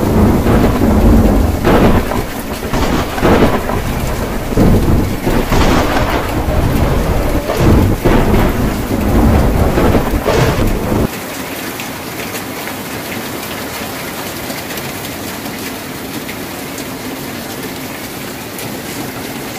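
Heavy rain on a tin roof with thunder breaking again and again, each peal about a second or so apart. About eleven seconds in the thunder and low rumble cut off abruptly, leaving a steady rain hiss.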